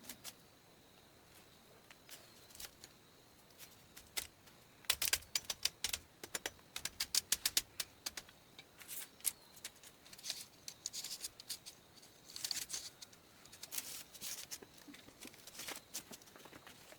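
Short sharp clicks in quick irregular runs, several in a row, with gaps of quiet between the runs, from some light handwork.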